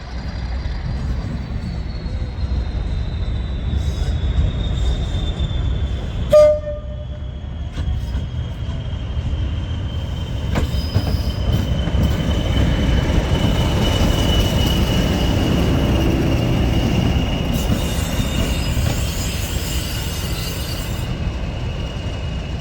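English Electric Class 40 diesel locomotive D345 running slowly by with a steady deep engine rumble that swells as it passes. A high thin whistle falls slowly in pitch throughout. One short, loud horn toot sounds about six seconds in.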